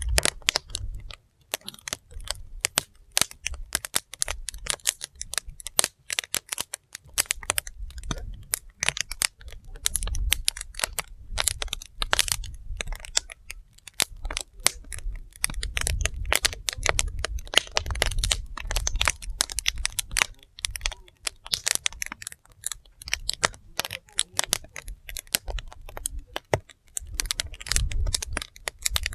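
Wood fire crackling, with rapid, irregular pops and snaps from the burning logs over a low rumble that swells and fades.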